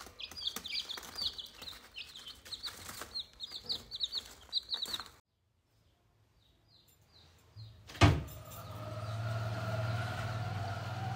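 Rose-ringed parakeet calling, a rapid string of short, sharp, falling screeches for about five seconds. After a silent gap there is a sharp click about eight seconds in, then a steady hum.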